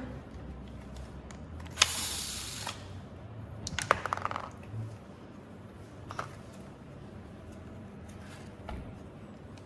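Small clicks and rattles of belt sander parts being handled during disassembly. There is a sharp click with a brief scraping rush just under two seconds in, a quick run of small clicks around four seconds, and a few isolated ticks after that.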